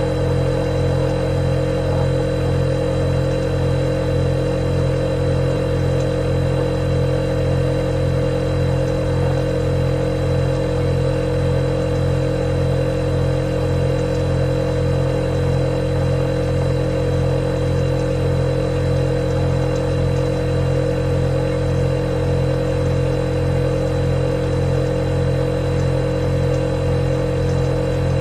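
Refrigerator running with a steady, unchanging hum made of several low tones and a faint high whine.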